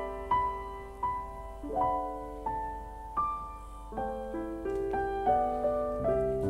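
Background piano music: a slow melody of single notes and soft chords, each struck and left to fade.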